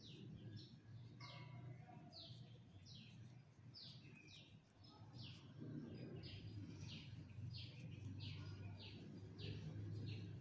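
A small bird chirping over and over, each chirp a short falling note, about one or two a second, faint over a steady low hum.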